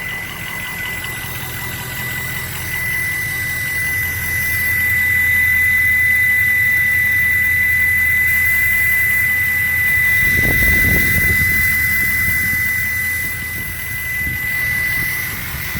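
2003 Ford F-350 diesel running at idle, its aftermarket 64 mm Turbo Time velocity-port turbocharger giving a steady high whistle over the engine note. A brief low rumble swells about ten seconds in.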